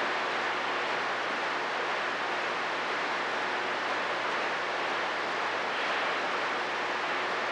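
CB radio receiver hissing with open-squelch static between transmissions, a steady, even rush with no voices coming through.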